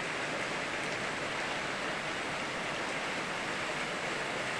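Steady rain mixed with a rushing river: an even hiss with no separate drops or splashes standing out.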